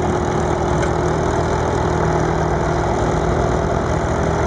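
The Volvo D47 diesel engine of a 1960 Åkerman 475 cable backhoe, running steadily at an even speed.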